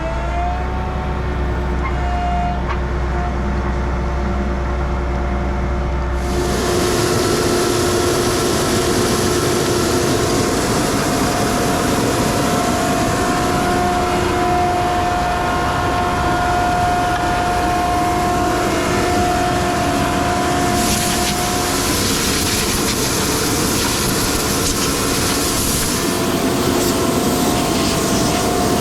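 Stone slinger truck running with a steady whine. About six seconds in, a loud steady rushing noise joins in as its conveyor starts flinging gravel, and it carries on to the end.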